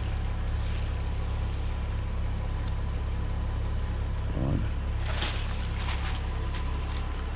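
A steady low rumble, with a few faint clicks and rustles about five seconds in.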